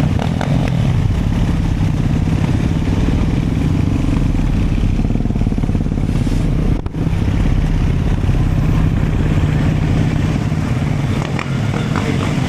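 Dirt bike engine running steadily under way, with one brief break in the sound about seven seconds in.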